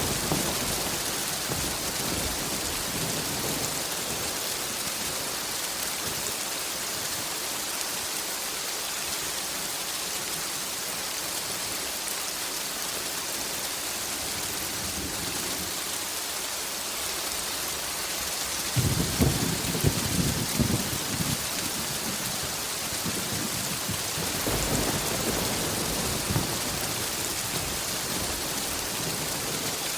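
Steady, heavy rain hissing on a surface, with rolls of thunder: a rumble dying away at the start, a louder roll about two-thirds of the way through, and a softer one shortly after.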